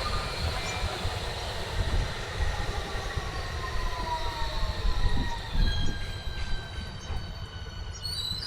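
Low vehicle rumble with several thin, high squealing tones that slide slowly down in pitch; more squeals join near the end.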